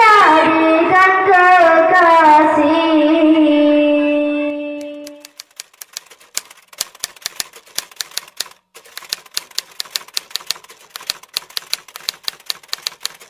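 A group of children chanting zikir in unison, ending on a long held note that fades out about five seconds in. Then a rapid run of typewriter key clicks, about five a second with a short break partway, a sound effect that goes with on-screen text being typed out.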